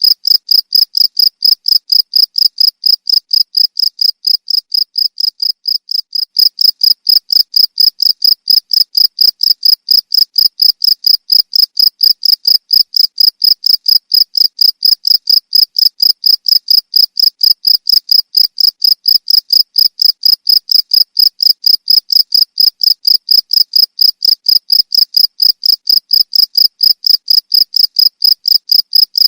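A cricket chirping in a steady, rapid train of short, high-pitched chirps, several a second, dipping slightly in loudness about five seconds in.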